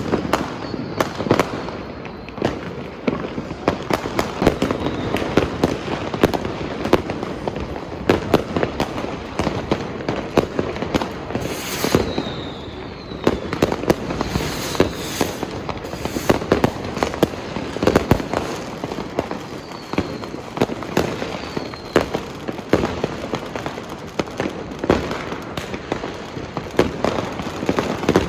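Many fireworks and firecrackers going off at once: an unbroken, irregular stream of bangs and crackling, with a few short whistles.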